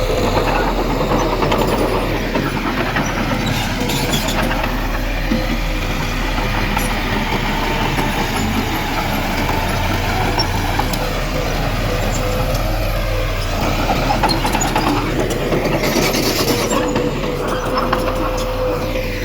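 Heavy diesel earthmoving machinery running steadily under load, with low engine rumble and clatter and a steady whine. A short hiss comes near the end.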